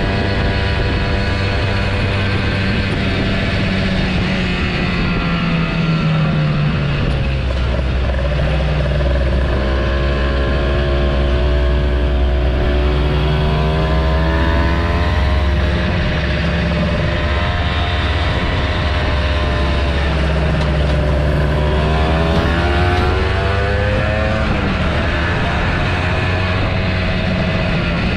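Kawasaki Ninja motorcycle engine running under way, its note falling and rising several times as the revs change, over a steady low rumble.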